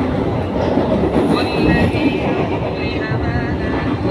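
Passenger train running, heard from inside the carriage: a steady rumble of wheels on the rails.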